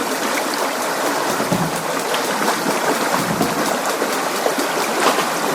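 Steady rushing water, dense with small splashes and drips.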